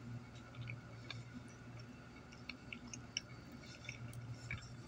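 A person chewing a bite of sandwich, heard as quiet, irregular small clicks and smacks of the mouth, over a steady low hum.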